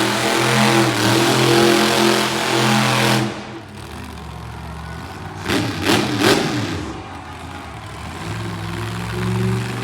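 Monster truck engine running hard at high revs, dropping off sharply about three seconds in. It gives a couple of quick revs that rise and fall in pitch around the middle, then settles back into a steady run near the end.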